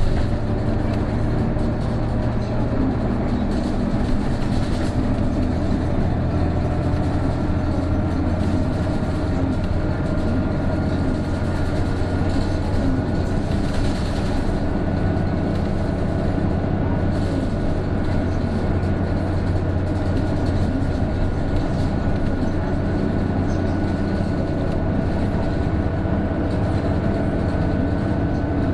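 Isuzu Erga PJ-KV234L1 bus's turbo diesel pulling steadily uphill. About six seconds in, a thin whine comes in over the engine and slowly rises in pitch. This is the abnormal whine this bus makes from about 1300 rpm once the turbo comes in, like the noise of an Aisin automatic gearbox.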